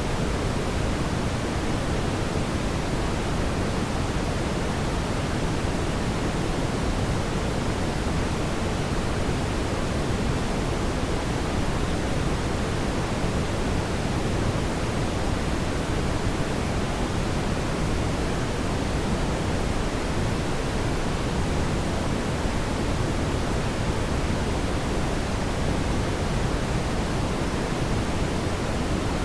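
Steady, even rushing noise, heaviest in the low end, from a fireplace ambience recording: a fire's continuous low roar with no distinct crackles or pops standing out.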